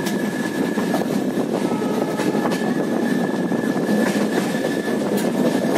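Passenger train coaches running on the track, heard from inside the moving train: a steady rumble of wheels on rail with a few sharp clicks, and a thin steady high whine over it.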